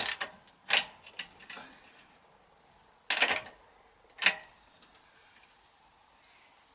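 Sharp metallic clicks and clinks of small parts and tools being handled while setting up a home-made pipe-bending jig (bolt, washer and nut) for copper tubing. There are a few near the start, a quick cluster about three seconds in, and one more a second later.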